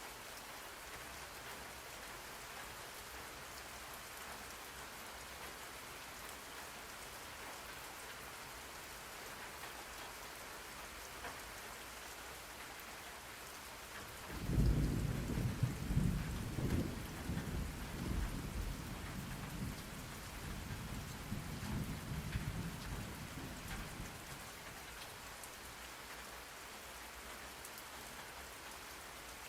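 Steady rain falling. About halfway through, a roll of thunder begins suddenly, is loudest in its first few seconds, and rumbles away over about ten seconds.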